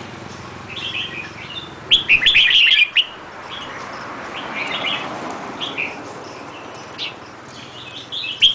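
A songbird singing in short, quick chirping phrases with gaps between them; the loudest run of notes comes about two seconds in, and another starts right at the end.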